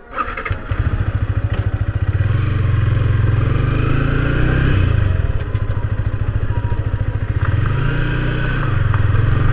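Motorcycle engine running as the bike rides off, picked up by a phone mounted on the motorcycle. It gets louder over the first couple of seconds and eases off and picks up again twice with the throttle.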